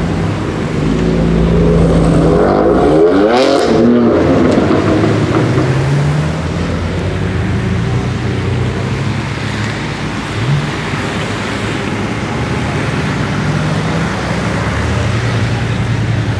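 BMW M4 (F82) twin-turbo straight-six accelerating past close by, its pitch sweeping up and then down as it goes by, with a brief burst of noise about three to four seconds in. After that, more BMW cars drive past at low revs, engines running steadily, with a short rev about ten seconds in and another near the end.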